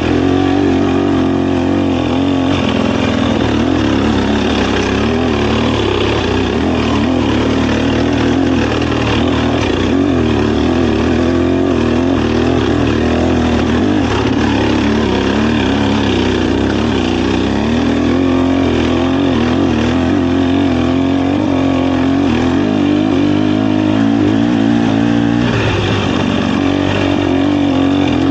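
Dirt bike engine running under load on a trail ride, its note rising and falling steadily with the throttle.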